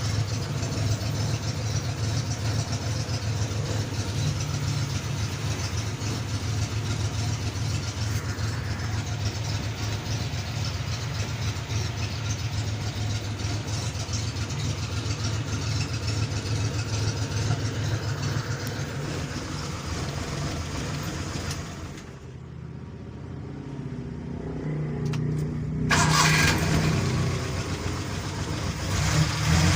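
Mitsubishi Jetstar pickup engine running steadily, freshly valve-adjusted to run smoothly. About three-quarters of the way in, the sound drops and dulls for a few seconds, then comes back louder.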